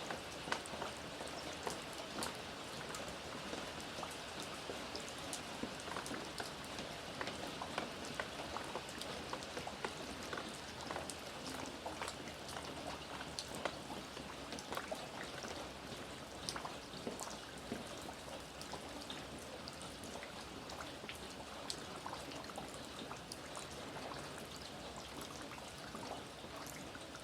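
Steady rain, with many individual drops ticking sharply on a surface over the constant patter.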